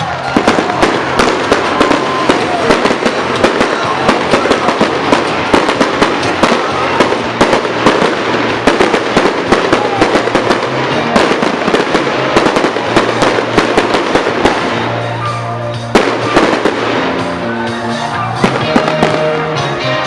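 Fireworks going off in a rapid barrage, with many bangs and crackles in quick succession and one sharp bang near the end, over music playing throughout.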